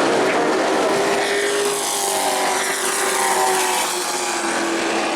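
Race truck engines running on the track, with their pitch gliding up and down as they pass.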